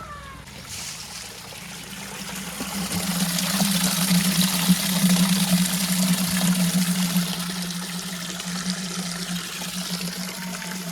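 A heavy machine's engine runs with a steady low hum, under a rushing, pouring-like noise that builds from about two seconds in and fades after about seven seconds.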